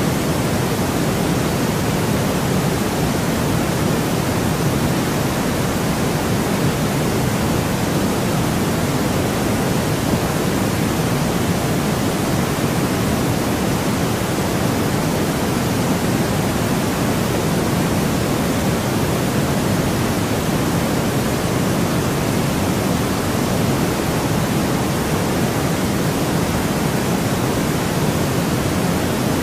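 Steady synthetic noise with no changes or events, its energy weighted toward the lower frequencies rather than perfectly flat.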